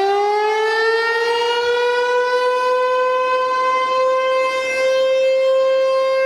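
Civil-defense-style warning siren: one pitched tone that is still rising in the first second or two, then holds steady and loud.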